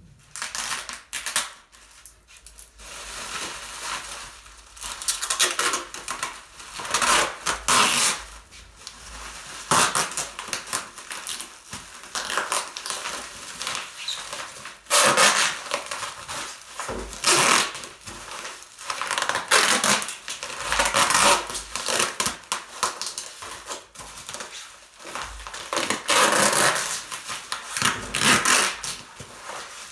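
Irregular rustling and crinkling, with knocks, from objects being handled, coming in bursts of a second or two.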